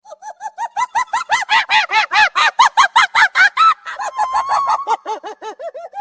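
Chickens clucking in a rapid run of short calls, about five a second, several birds overlapping in the middle.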